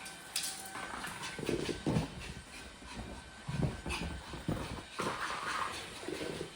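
Maltese dog running about excitedly on a hard floor: an irregular patter of paws, with thumps and scuffles.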